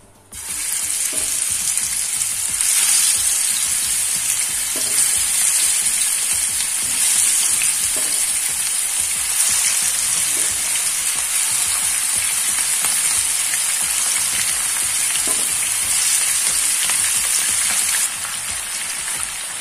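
Marinated chicken pieces dropped one at a time into hot shallow oil, which bursts into a steady sizzle with crackling. The sizzle starts suddenly about half a second in, with a few brief spurts as more pieces go in, and eases a little near the end.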